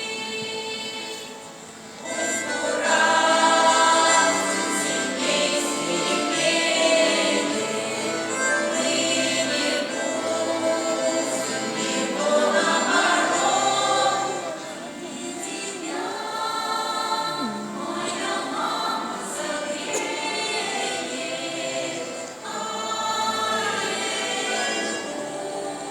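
Russian folk choir singing, many voices together in held phrases, with a short dip about two seconds in before the next phrase.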